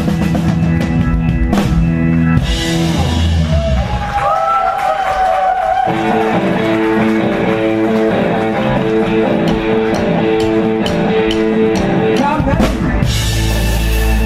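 Blues-rock band playing live, with electric guitar, bass and drum kit. A few seconds in, a lead line of gliding, bent notes rises over the band, and later the band comes back in full with repeated cymbal strikes.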